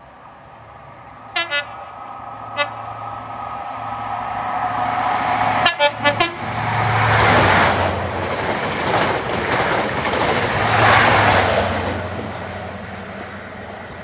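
New Measurement Train, an HST with Class 43 diesel power cars, sounding its horn in short toots: two quick ones about a second and a half in, one more soon after, then a louder cluster of four quick toots about six seconds in. The train then passes at speed, engine hum and wheel-on-rail rush swelling twice as the leading and trailing power cars go by, and fades away near the end.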